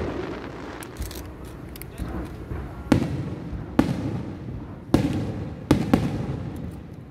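Aerial fireworks shells bursting: a fading rumble at first, then about five sharp bangs roughly a second apart from about three seconds in, each trailed by a rumbling echo.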